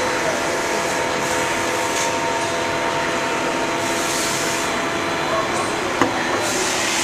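Steady machine hum and hiss with a few faint steady tones in it, and a single click about six seconds in.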